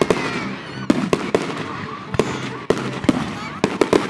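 Fireworks going off: a string of sharp bangs and cracks in quick, irregular succession.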